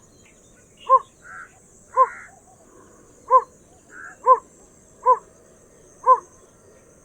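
Yellow bittern calling: a series of short, low, hoarse notes repeated about once a second, seven or so in all.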